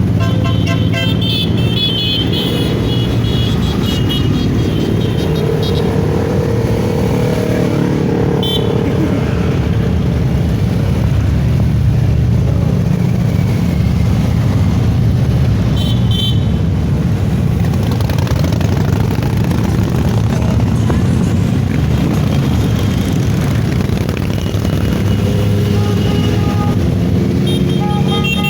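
Motorcycle engines running steadily, their pitch rising and falling a little, with brief horn toots a few times.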